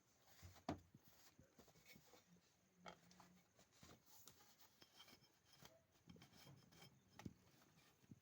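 Near silence with faint, scattered clicks and rubbing, as of hands handling small objects.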